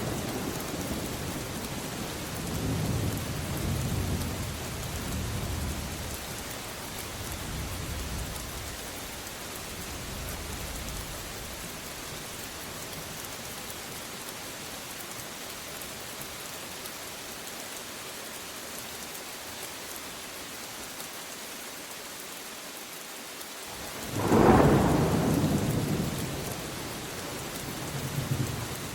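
Steady rain with rolling thunder: low rumbles fade out over the first ten seconds or so, then a loud thunderclap breaks in about 24 seconds in and rumbles away.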